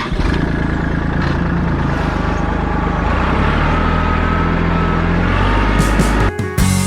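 Vehicle engine running loudly and steadily, with its pitch slowly rising in the middle; it cuts off about a second before the end.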